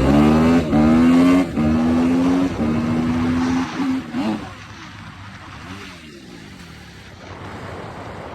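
Dirt bike engine accelerating hard, its note climbing with two brief drops as it shifts up, then holding steady; about four seconds in the throttle closes and the engine drops to a much quieter, wavering run. The hard pull follows the rider's announced low-wheelie attempt.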